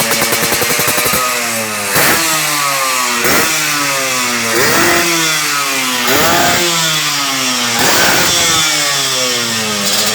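Two-stroke motorcycle engine through an aftermarket racing exhaust: it idles, then the throttle is blipped five times, each rev jumping up and sliding back down, before it settles to idle again near the end.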